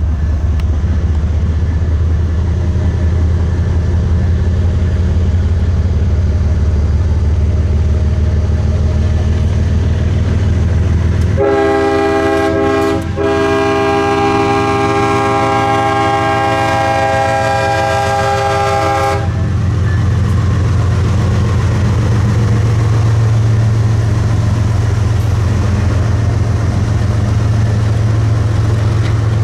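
Diesel freight locomotives running at close range. The lead unit sounds its multi-chime air horn in one long blast of about seven seconds near the middle, with a brief break early in the blast.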